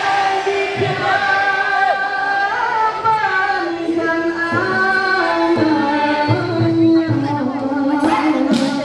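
A group of voices singing long held notes in harmony over music, the chord moving every second or so.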